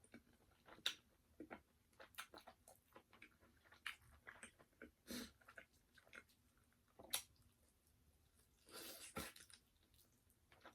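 Close-miked eating sounds of fried chicken: soft crunches, wet chewing and mouth clicks at irregular intervals, with one longer soft rushing sound about nine seconds in.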